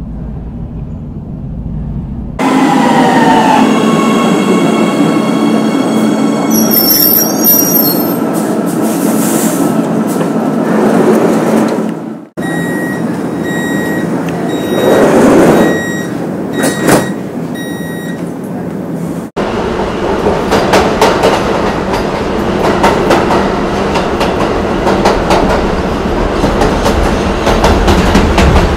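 Subway train sounds. First an electric train's motors whine with gliding pitch, with a high wheel squeal. After a cut comes a run of evenly spaced beeps. After another cut the train runs with rail clatter.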